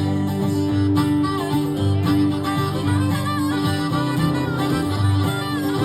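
Americana band playing an instrumental break with no singing: strummed guitar chords carry the rhythm, and a harmonica plays a wavering melody over them from about two seconds in.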